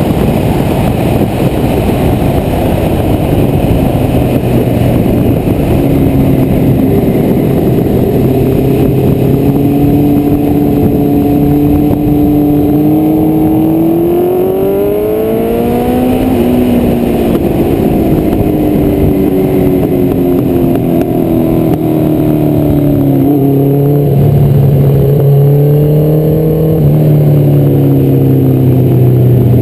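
Honda CBR1100XX Blackbird's inline-four engine under way at track speed, with heavy wind rush on the microphone. The engine note climbs steadily to a peak about halfway through, falls away, then rises and drops again near the end.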